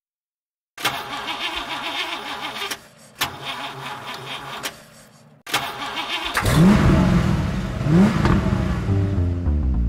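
Car engine cranking, then catching about six seconds in and being revved twice with rising pitch before it settles lower.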